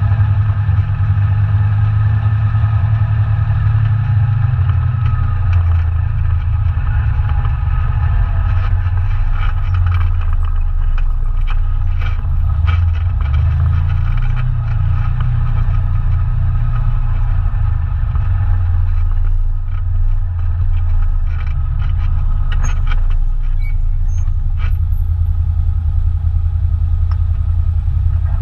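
ATV engine running steadily while riding, with a heavy low rumble and scattered short clicks and knocks in the second half.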